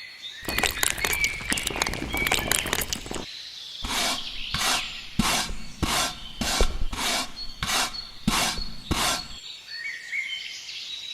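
Rough scraping strokes by hand: a quick, dense run at first, then a steady rhythm of about two strokes a second that stops a little before the end.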